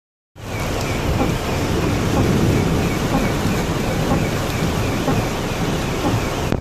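Storm wind buffeting the microphone in a loud, rushing, low-heavy roar, with a faint high warble repeating a few times a second; it starts about a third of a second in and cuts off abruptly at the end.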